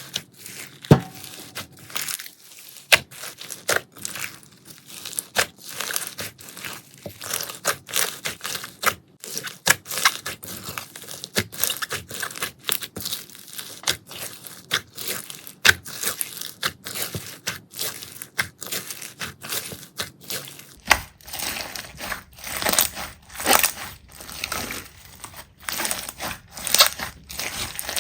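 Slime being pressed and squeezed by hand, giving a dense run of crackling and popping clicks. The texture of the crackle changes about three-quarters of the way through.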